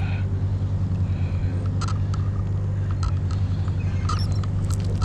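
An engine running steadily at idle, with a few light clicks and knocks over it.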